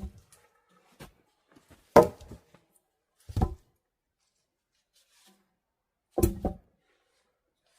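A few separate knocks and thuds, each cut off short, with dead quiet between. The loudest comes about two seconds in, one follows about a second and a half later, and a quick double knock comes near the end.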